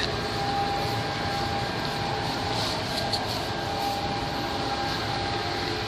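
Steady mechanical hum with a faint, constant whine.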